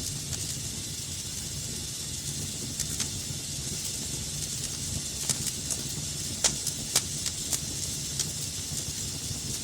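Wood fire burning in a fireplace: a steady hiss and low rumble with scattered sharp crackles and pops, the loudest a little past the middle.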